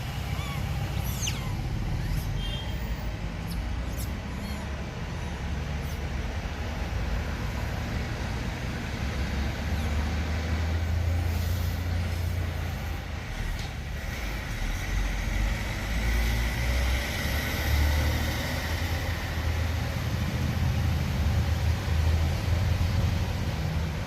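Steady low outdoor rumble with a fluctuating noise haze and a few faint clicks; no speech or music.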